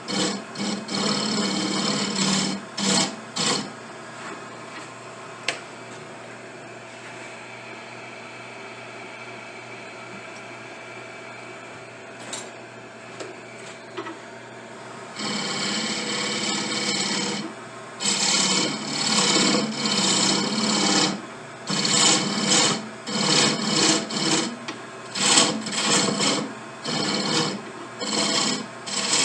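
A power tool's motor running steadily, with repeated uneven bursts of grinding or sanding as briar wood is pressed against it. A quieter stretch in the middle holds the motor alone, and the bursts start up again about halfway through.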